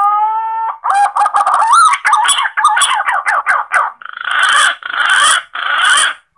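Green pigeon (punai) calls played as a hunting lure: a whistled note rising in pitch, then a quick run of short wavering notes, ending in three longer, harsher calls.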